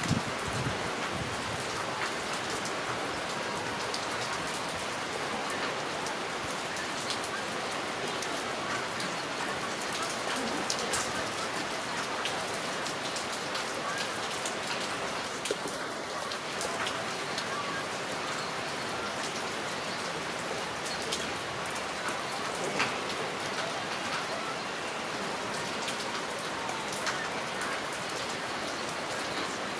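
Heavy rain falling steadily, an even hiss with sharper drips ticking on a hard surface now and then.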